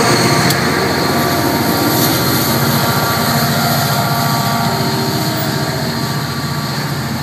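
A GP40PH-2B diesel locomotive at the rear of an NJ Transit push-pull commuter train passes close by and pulls away. Its engine and wheel noise fade slowly, with the grade-crossing bells ringing.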